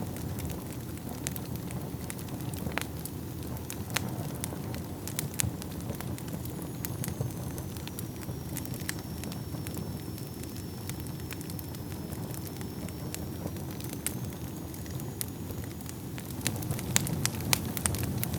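Wood fire burning in a fireplace: a steady low rumble of flames with scattered crackles and pops, which come thicker near the end.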